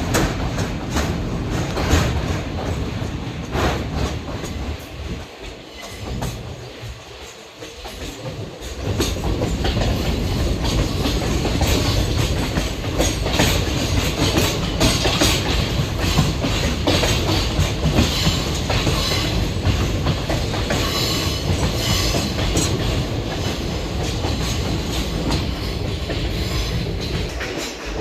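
Passenger train running on the track, its wheels clattering over the rail joints with a steady rumble. The sound drops quieter for a few seconds about five seconds in, then grows louder again.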